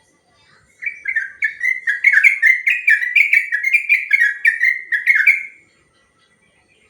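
Yellow-vented bulbul (trucukan) singing a long rapid phrase of short, repeated, slurred whistled notes, about four a second. The phrase starts about a second in and stops after roughly five seconds.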